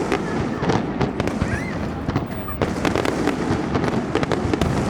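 Aerial fireworks display going off in a rapid, continuous barrage: many overlapping bangs and crackles over a steady rumble, with no pause.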